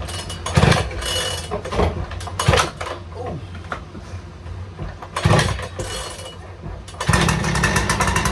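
Makita EK6100 two-stroke petrol disc cutter being pull-started: several short bursts as the cord is pulled, then the engine catches about seven seconds in and runs steadily.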